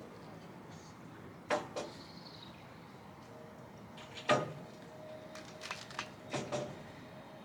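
A series of sharp knocks and clanks as canopy frame bars and fittings are handled and taken apart, two near the start, the loudest about four seconds in, then a quick cluster of four; a faint ringing tone hangs on after the loudest knock.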